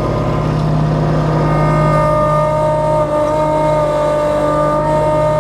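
Kubota B2650 compact diesel tractor engine running steadily at high throttle, a loud, even hum with a steady whine above it.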